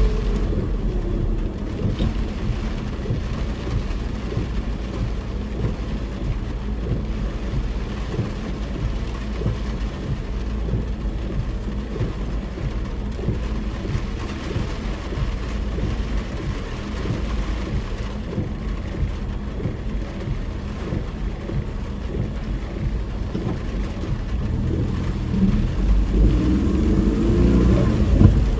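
Car interior noise while driving in heavy rain: steady engine and road noise from tyres on a wet road, with rain ticking on the body. Near the end the engine note rises and gets louder as the car accelerates.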